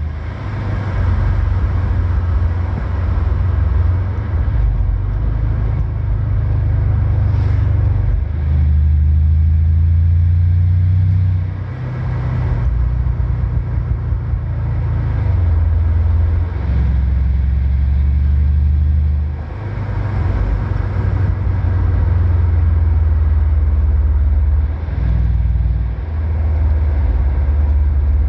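The twin-turbo V8 of a Mercedes CLS 500 Shooting Brake running through a 76 mm Friedrich Motorsport cat-back sport exhaust, with a deep exhaust drone. The pitch of the drone holds for a few seconds, then steps up or down, and the loudness dips briefly several times.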